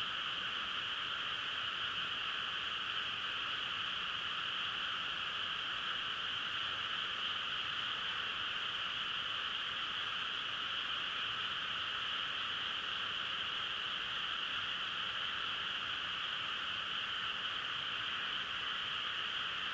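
A dense chorus of frogs calling, heard as a steady, unbroken drone with no single call standing out.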